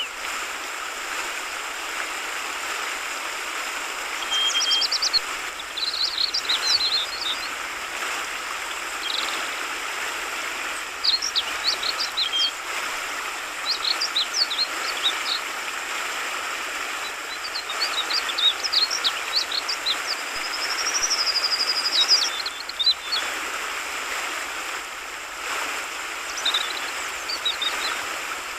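Yellow-vented bulbul (trucukan) singing short phrases of quick high notes every few seconds, with one longer wavering whistle about three quarters of the way through, over a steady babble of flowing water.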